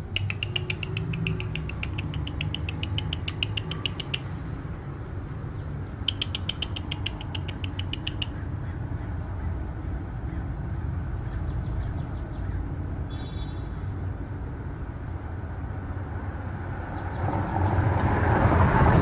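A fast, even string of high chips, twice for a few seconds each, from a small animal or bird, over a steady low rumble like distant traffic. Near the end a broader, louder noise swells up.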